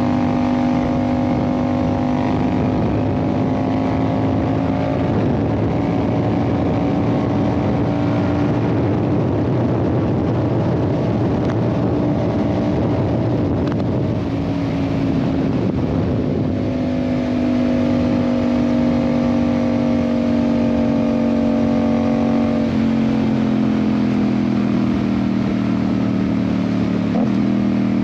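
Yamaha MT-07's parallel-twin engine, with an aftermarket IXIL exhaust, running under way at fairly steady revs. A rushing wind noise swells in the middle, and the engine note steps down in pitch about three quarters of the way through.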